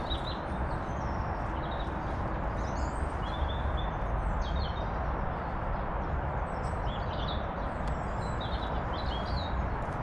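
Small garden birds chirping in short, scattered calls, over a steady low rumble and hiss of outdoor background noise.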